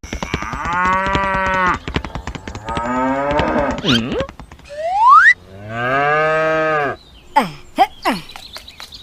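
Cattle mooing: three long calls, with a quick rising whistle-like glide about five seconds in that is the loudest sound, and a few short falling squeaks near the end, over fast steady clicking.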